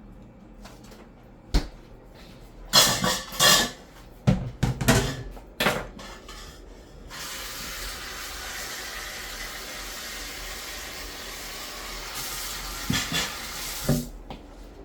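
Clatter and knocks of kitchen utensils being handled at a sink, then a kitchen tap running steadily for about seven seconds, with a couple more knocks as things are rinsed under it.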